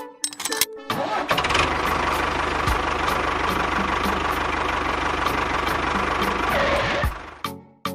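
An engine sputtering as it catches, running steadily for about six seconds, then sputtering and dying away near the end.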